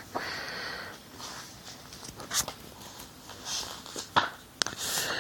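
A breathy sniff or exhale, then a few sharp light clicks and knocks of hands handling something close by, with soft breathing between them.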